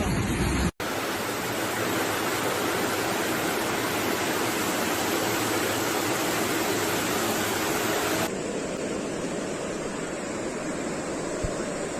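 Steady rushing roar of floodwater, a dense even noise with no pauses. It breaks off for an instant just under a second in and turns duller about eight seconds in.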